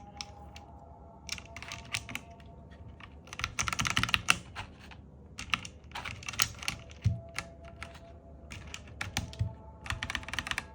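Typing on a Zifriend KA646 mechanical keyboard: bursts of rapid key clicks with short pauses between them.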